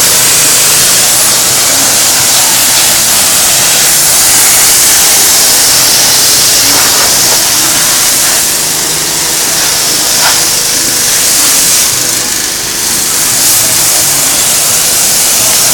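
Water jetting from a pressure washer in a loud, steady hiss, with a low steady hum underneath.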